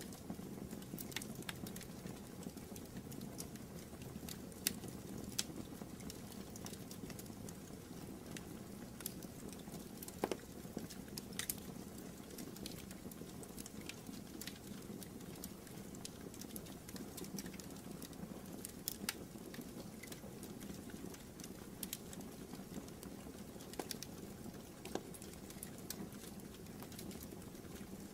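Fire burning in a fireplace: a steady low rustle of flames with irregular sharp crackles and pops.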